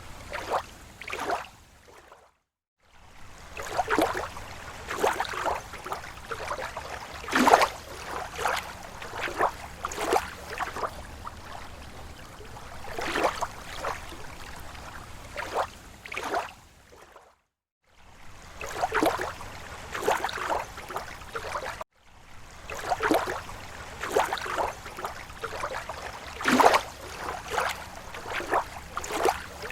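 Small, slow waves lapping against a lake shore: irregular sloshes and splashes every second or so over a steady wash of water. The sound cuts out to silence briefly twice.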